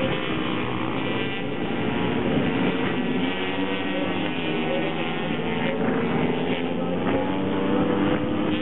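Several racing minibike engines running at high revs together, their pitches rising and falling against each other as the riders accelerate and shift.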